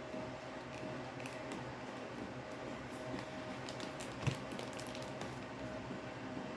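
Hands handling packaging during an unboxing: scattered small clicks and crinkles, with one louder knock about four seconds in, over a faint steady hum.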